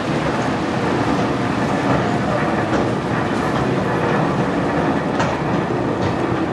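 Brussels metro train running on its rails: a steady rumble with a few short sharp clacks.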